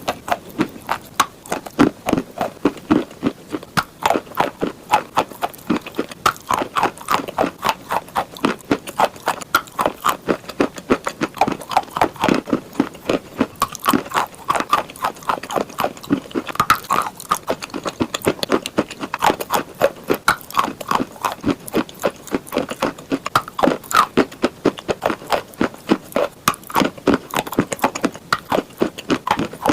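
Close-up crunching of a person chewing chalk, with sharp crunches at a steady pace of about three a second throughout.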